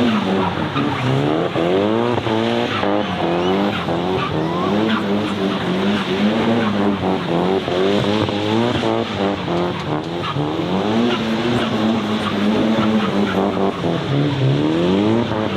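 Toyota 2JZ straight-six in a Nissan Silvia S15 revving up and down over and over while drifting, with tyres screeching.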